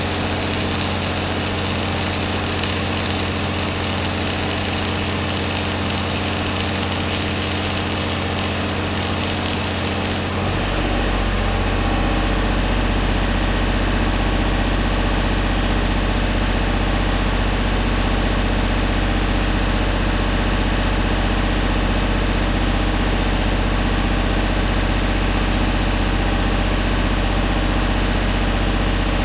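Flux-core arc welding hissing and crackling over a machine's steady running drone. About ten seconds in the arc stops abruptly, leaving a deeper, steady running drone.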